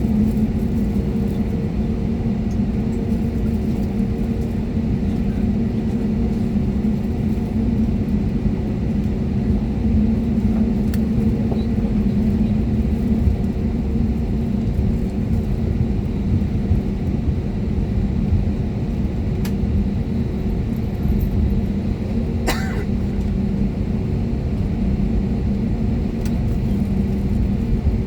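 Steady hum and rumble of an Airbus A320-251N's CFM LEAP-1A turbofan engines heard inside the cabin, holding an even level. One short sharp sound cuts through about 22 seconds in.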